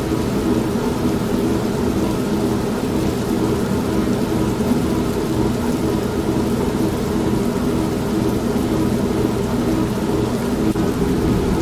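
Steady rain with a low rumble of thunder, mixed over the even drone of an old manual washing machine running.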